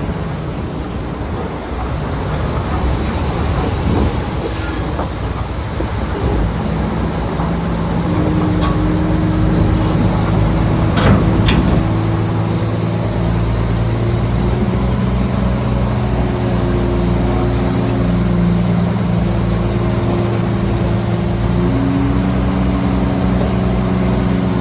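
Heavy diesel engine of earthmoving machinery running steadily under load. The engine note grows stronger about eight seconds in, and there is a brief metallic clank around eleven seconds in.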